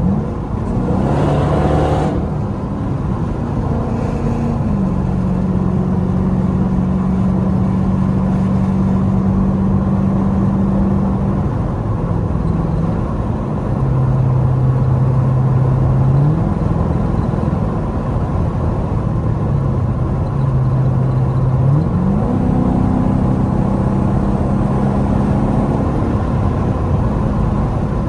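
Straight-piped Dodge Durango exhaust droning steadily while driving, its pitch stepping up and down with the throttle: a quick rev rise about a second in, a drop around halfway, and another rise near the end.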